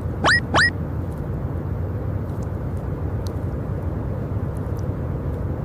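Tractor engine running steadily with a low rumble, as a cartoon sound effect. Two short rising squeaks sound near the start.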